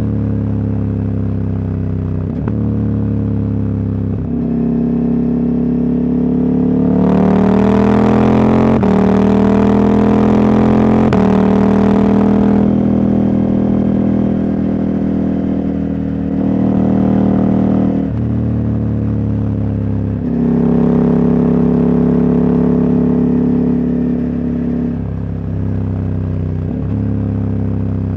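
Husqvarna Norden 901 parallel-twin with its catalytic converter removed, running on the road. The engine note climbs and steps down at each upshift. It pulls harder and louder about a quarter of the way in, eases off near the middle, then picks up again twice.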